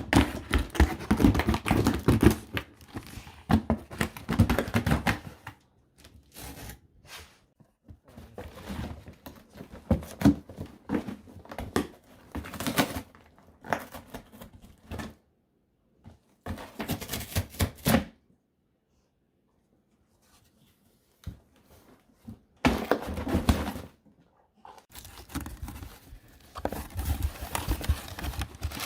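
A dog tearing and crumpling a cardboard shipping box in irregular bursts, with a quiet pause of a few seconds past the middle.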